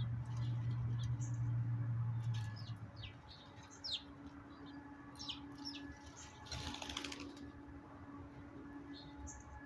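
Small backyard birds giving short, quick chirps now and then, with a brief flutter of wings about seven seconds in. A low rumble fills the first three seconds, and a faint steady hum runs underneath.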